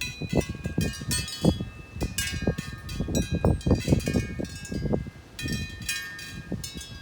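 Wind chimes ringing irregularly: many clear metallic tones striking at uneven moments and ringing on, over an uneven low rumble.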